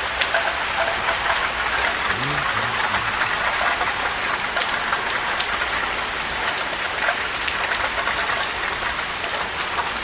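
Steady rain falling through a thunderstorm, with scattered sharper drop hits.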